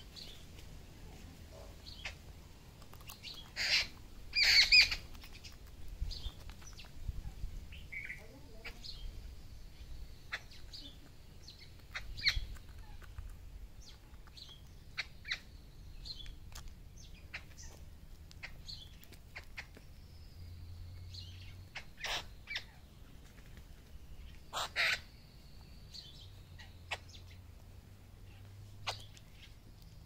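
Birds feeding on grain scattered on the ground right by the microphone, an Indian peafowl and jungle babblers among them: irregular sharp taps, clicks and short chirps, with a louder flurry about four to five seconds in.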